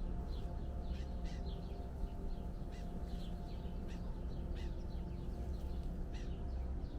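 Several birds chirping and calling in short, repeated notes, over a steady low hum.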